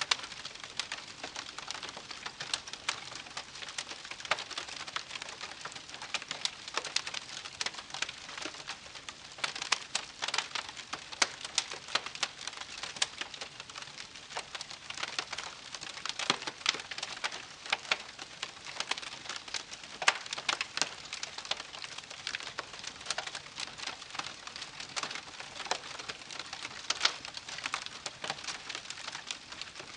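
Wood campfire crackling and popping: a dense, irregular run of sharp snaps over a soft hiss.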